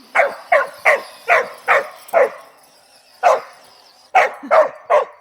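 Puppy barking repeatedly: a quick run of about six short barks, a pause of about a second, then four more near the end.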